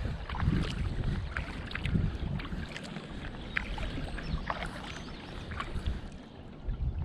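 Kayak paddling: water splashing and dripping off the paddle blades in short irregular splashes, with wind rumbling on the microphone in the first couple of seconds.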